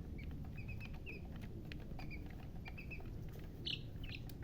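Baby chicks peeping in short, quick runs of two or three chirps, with scattered light taps.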